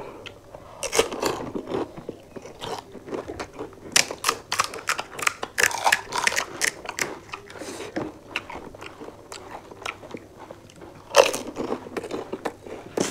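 Crisp panipuri shells being bitten and chewed: a quick, uneven run of sharp crunches, with a louder crunch near the end.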